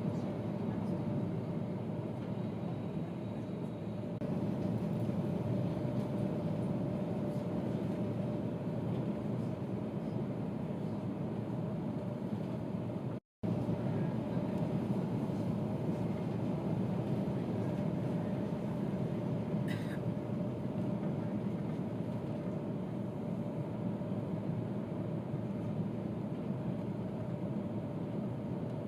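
Steady running noise inside a moving train carriage, a low rumble with a constant hum. The sound drops out for a split second about thirteen seconds in.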